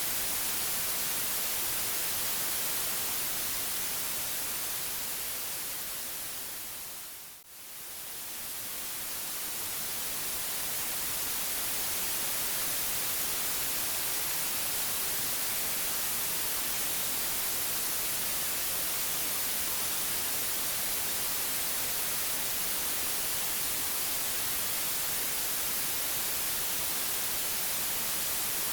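Steady white noise hiss across all pitches. It fades down to a brief dip about seven seconds in, then swells back to full level over the next few seconds.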